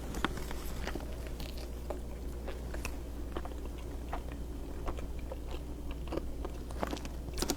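Biting into and chewing a burrito with crunchy spicy chips inside: soft, irregular crunches and mouth clicks.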